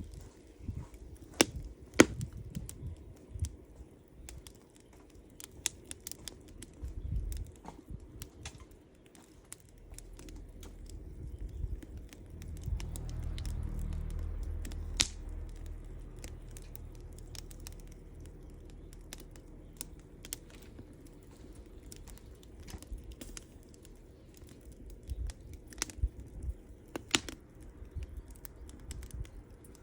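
Wood campfire crackling, with irregular small ticks and a handful of sharp pops, the loudest about 2 seconds in, about 15 seconds in and near the end. A low rumble rises about 10 seconds in, peaks a few seconds later and fades away by about two-thirds of the way through.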